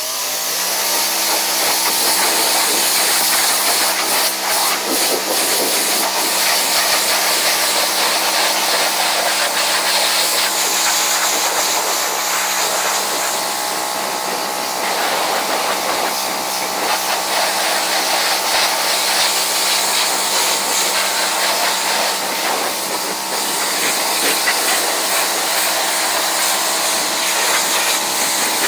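Pressure washer running steadily with the hiss of its high-pressure water jet spraying; it comes up to speed right at the start.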